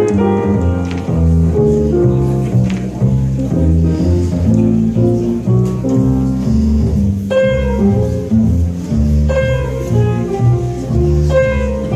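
Recorded music played back on tape through vintage Western Electric cinema horn loudspeakers. An instrumental passage without vocals has a stepping plucked bass line, and higher plucked notes join about seven seconds in.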